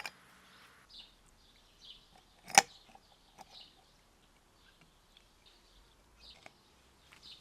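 One sharp clink about two and a half seconds in, over faint, scattered high chirps.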